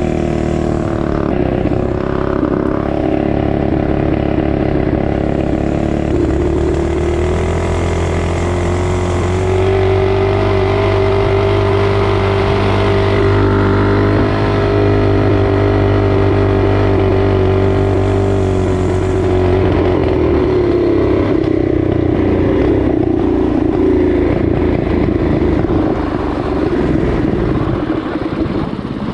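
Small single-cylinder four-stroke dirt bike or minibike engine running under way. The revs climb about six seconds in, hold steady, ease off around twenty seconds and drop back near the end.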